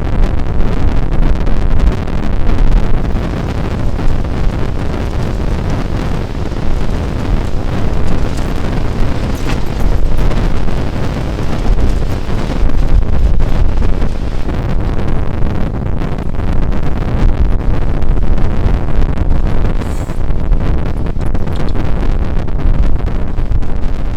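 Strong wind buffeting the microphone: a loud, low rumbling noise that swells and eases with the gusts.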